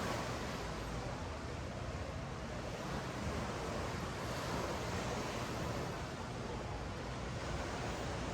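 Ocean waves washing up and down a sandy beach: a steady rush of surf that swells slightly about halfway through.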